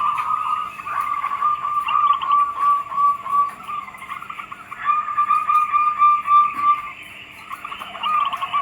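Zebra doves (perkutut) cooing: runs of short notes repeated quickly on nearly one pitch, with a pause of about a second and a half between runs. Fainter, higher chirps sound over them.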